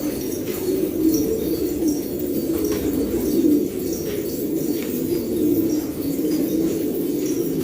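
Many domestic pigeons cooing at once in a steady, overlapping chorus, with short high chirps mixed in.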